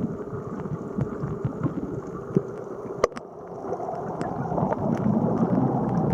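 Water gurgling and sloshing, with scattered sharp clicks, growing louder from about four seconds in.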